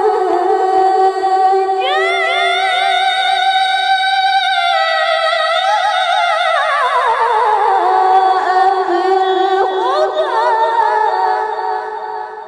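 A woman's melodic Qur'an recitation (tilawah) held in one long melismatic phrase in a high, clear voice with vibrato. The voice leaps higher about two seconds in, slides down by steps in the middle, and fades out at the end.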